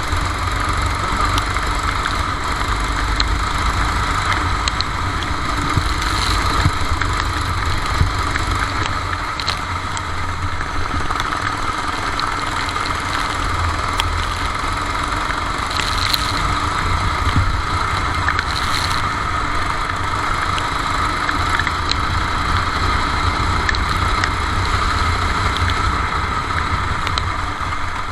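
Kart engine running without a break, heard from onboard the kart, a steady drone at a fairly even level.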